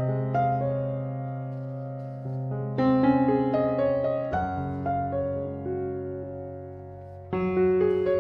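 Background piano music: slow, gentle chords struck every few seconds and left to ring and fade.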